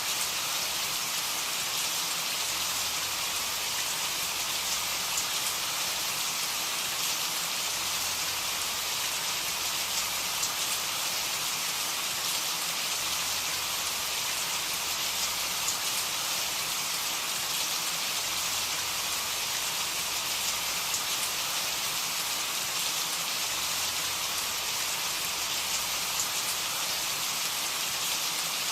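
Steady rain falling, a dense even hiss with occasional individual drops ticking through it.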